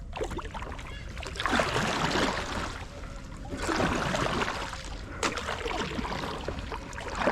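Kayak paddle strokes splashing and swishing through the water, two strong strokes about two seconds apart, with a sharp click a little after the second.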